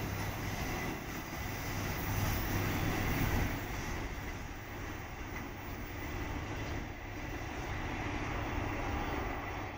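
Passenger train's carriages rolling away on the track, a steady low rumble that drops in level about three and a half seconds in as the train recedes.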